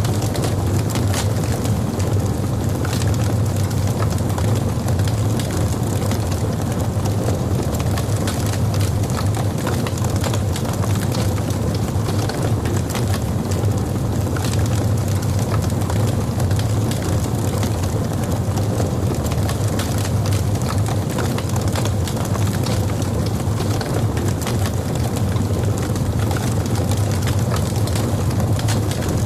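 Wood logs burning in a fireplace: a steady low rumble of the fire with frequent small crackles and pops throughout.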